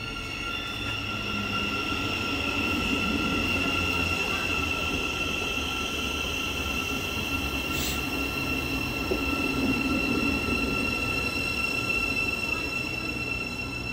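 Thameslink Class 700 electric multiple unit running into the platform and slowing to a stop. Its rumble swells over the first couple of seconds and eases near the end, under a steady high-pitched whine. There is a short sharp click about eight seconds in.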